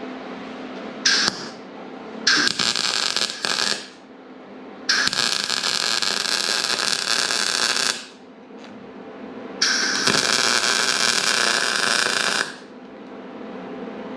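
MIG welder arc crackling in four bursts, the longest about three seconds, as beads are laid on a cracked steel race-car frame tube; a steady low hum continues between the bursts.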